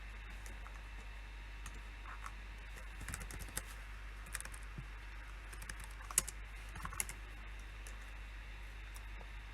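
Typing on a computer keyboard: scattered keystrokes, bunched into quick bursts between about three and seven seconds in, with one sharper key strike near the six-second mark. A steady low hum sits underneath.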